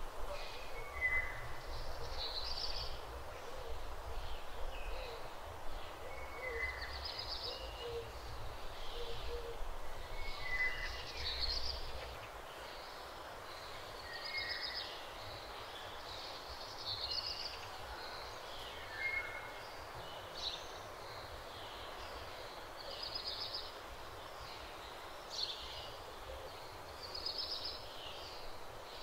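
Songbirds calling and warbling over and over, a short call every second or two. A low outdoor rumble lies under them and fades out about twelve seconds in. No mooing is heard.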